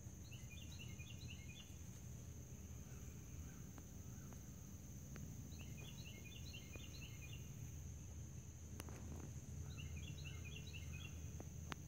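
A songbird faintly singing a short phrase of quick chirps three times, about every five seconds, over a low steady background rumble and a steady high whine.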